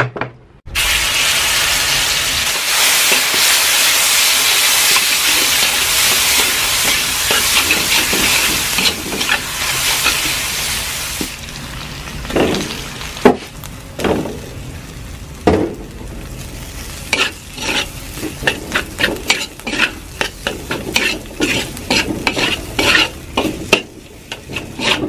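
Ground garlic, chilli and salt paste sizzling loudly as it hits a hot wok, starting suddenly about a second in. After about ten seconds the sizzle dies down and a metal spatula scrapes and stirs in the wok, first the paste and then rice, in quick repeated strokes.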